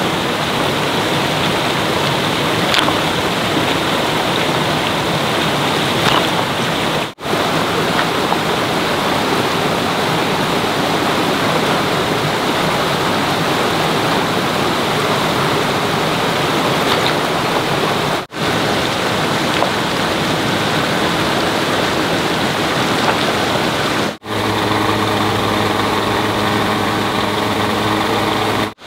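Loud, steady rush of flowing water. About three quarters of the way through, a steady low machine hum joins the water, fitting the small water turbine running.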